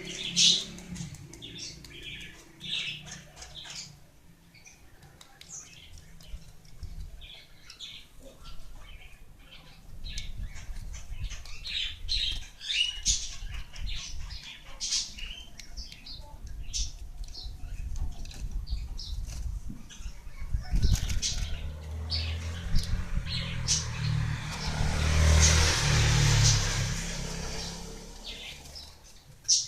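Small songbird, the gelatik wingko, giving short high chirps again and again at an irregular pace. A low rumble sits under them through the second half and swells near the end.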